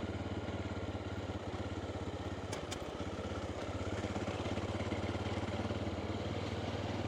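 Honda Dominator's single-cylinder four-stroke engine running steadily at low revs while riding, picking up slightly partway through. There is a brief click about two and a half seconds in.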